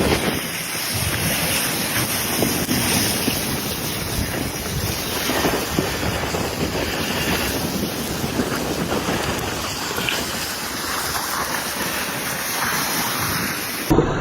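Steady wind buffeting the microphone over the wash of open water, with no clear single event; the sound cuts off abruptly near the end.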